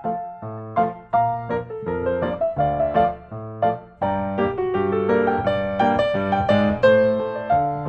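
Piano music: a lively run of struck notes and chords over a bass line, in the manner of a silent-film accompaniment.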